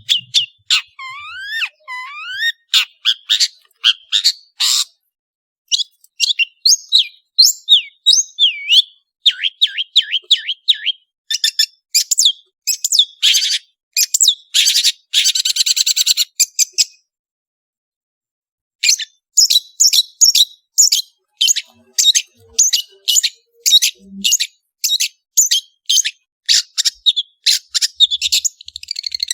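Long-tailed shrike (cendet) singing a fast, varied song of rapid chirps and rising whistled glides, with a dense chattering burst in the middle. After a short pause it gives a run of sharp repeated notes, about two a second.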